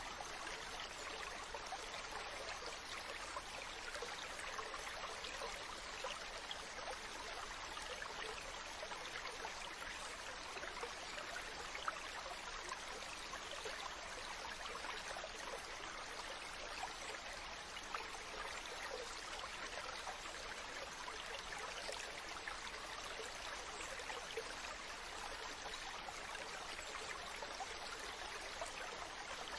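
Ocean water washing in a steady, unbroken hiss with a fine crackle, with no distinct waves breaking.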